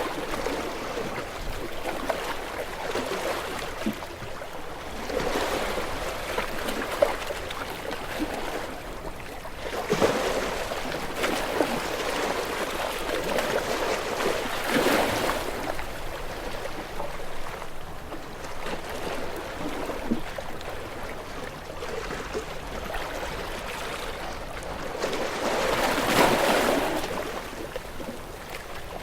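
Small waves lapping and washing onto a shore, with louder washes swelling up about ten, fifteen and twenty-six seconds in.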